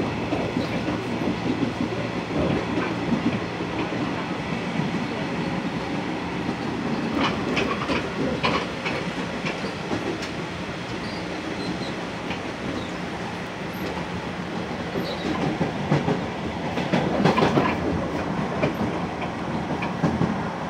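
Electric commuter train running, heard from inside the carriage: a steady rumble of wheels on rails with a low hum. Clusters of clicks from the wheels passing rail joints come around the middle and again late on.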